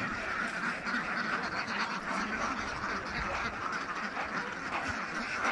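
A large flock of domestic ducks quacking together in a steady, dense chorus of overlapping calls.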